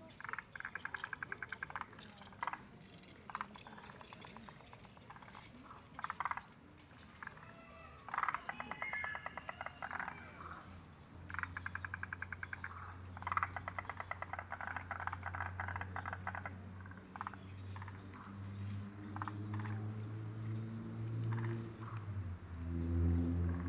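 Woodland birdsong: repeated rapid, evenly pulsed trills and a steady high chirring. A low droning hum comes in about halfway, grows, and shifts pitch in steps near the end.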